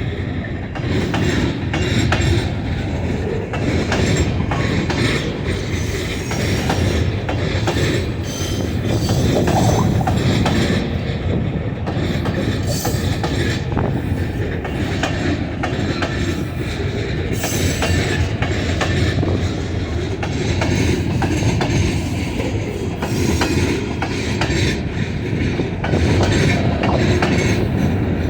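Train cars rolling steadily past at close range: a continuous heavy rumble with a constant patter of wheel clicks over the rail joints.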